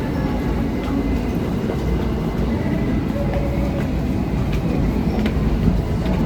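New York City subway R train running between stations, heard from inside the car: a steady low rumble with scattered clicks.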